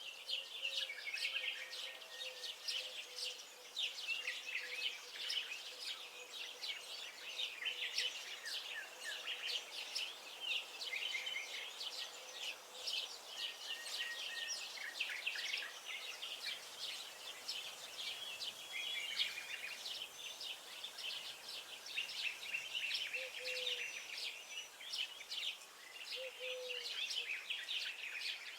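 A chorus of many songbirds singing at once, with dense, overlapping rapid chirps and trills.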